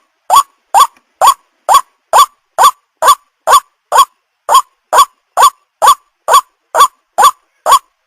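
White-breasted waterhen call played back as a bird-trapping lure: a loud, short rising note repeated evenly about twice a second.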